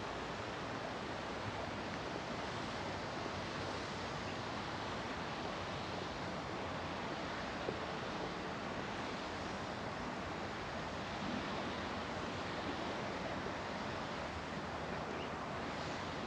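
Steady rushing outdoor background noise of a park, with one faint click about eight seconds in.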